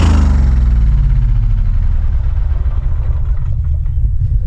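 Grasshopper mower's Kohler Command 20 hp engine winding down from high speed to a steady low idle, with a few light clicks and knocks near the end.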